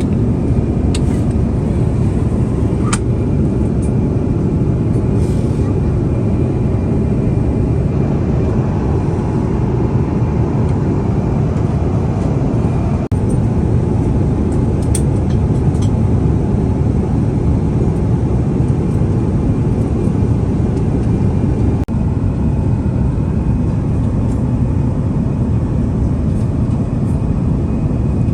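Steady rumble and rush of an Airbus A350-900's passenger cabin, from its jet engines and the airflow, with a few faint clicks.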